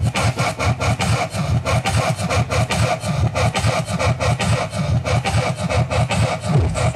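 Loud, distorted electronic dance music with a fast, pounding bass beat, overloading the microphone.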